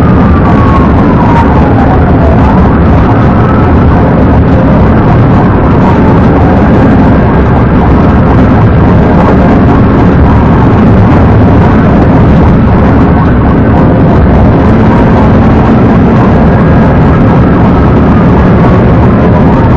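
Police car dashcam audio during a high-speed pursuit: loud, steady road, wind and engine noise, with a siren wailing faintly underneath, its pitch sweeping down and up every few seconds.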